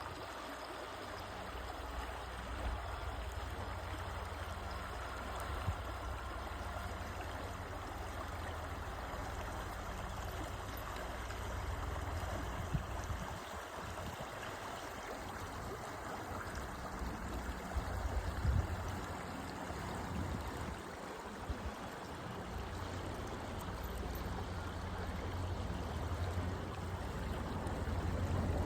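Hantan River water flowing: a steady rushing of water, with a low rumble underneath that comes and goes.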